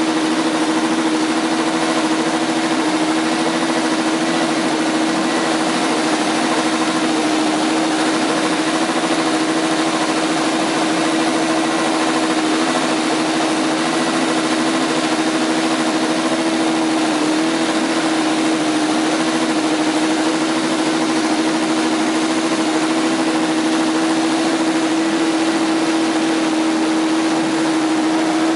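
McLaren MP4/4 Formula One car's turbocharged Honda V6 idling at a steady, unchanging pitch.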